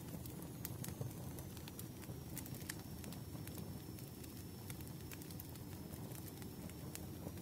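Fireplace crackling: a steady low rumble of burning wood with scattered, irregular sharp pops and snaps.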